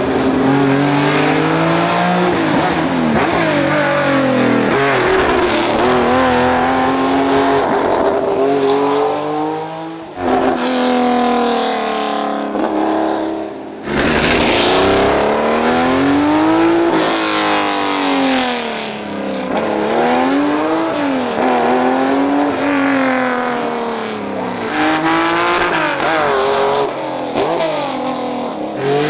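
Porsche race car engines at hard throttle, revving up and dropping again and again as the cars shift through the gears. Abrupt cuts to a different car come about ten and fourteen seconds in.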